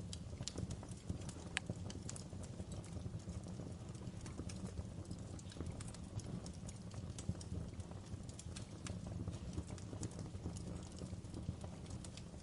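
Wood fire crackling in a fireplace: irregular sharp pops and snaps over a low steady rumble of the flames, with one louder pop about one and a half seconds in.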